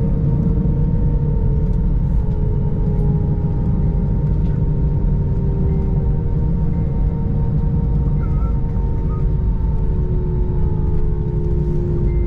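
Airbus A321 engines and airflow heard inside the cabin as a steady, loud rumble, with two engine tones slowly falling in pitch.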